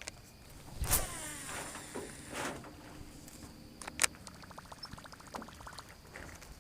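Fishing rod and reel: a cast whooshes about a second in, a sharp click follows around four seconds, then the reel ticks rapidly and evenly as line is cranked in.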